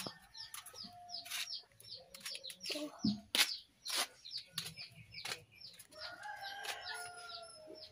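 Birds chirping: a steady run of short, high, downward chirps, several a second, with a few sharp knocks in between.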